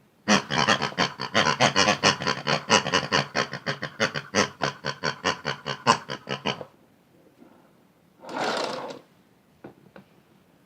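Hard toys rattling and clattering inside the drum of a toy washing machine: a rapid run of sharp clicks for several seconds that then stops. A short rushing burst follows near the end.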